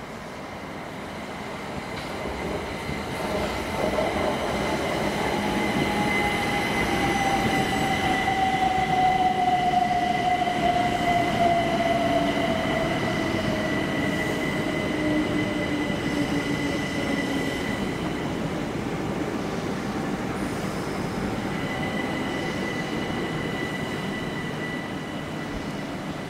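A train running through the station: a whine that slowly falls in pitch and a steady high squeal over the rumble of wheels on the rails. It grows louder to a peak midway and then eases off.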